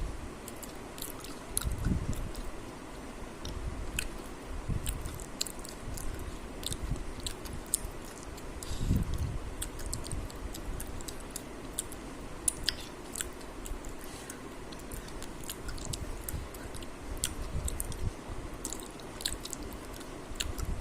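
A person chewing and biting food, with many short, sharp mouth clicks and a few low thumps scattered through.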